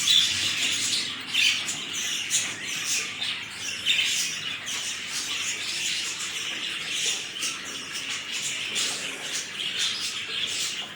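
Budgerigars chattering and squawking without pause, a dense stream of short, harsh calls.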